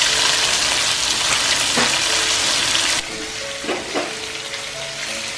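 Chicken drumsticks sizzling as they fry in hot oil in a non-stick pan. The sizzle is loud for about three seconds, then drops suddenly to a quieter level, with a couple of brief scrapes. Faint background music underneath.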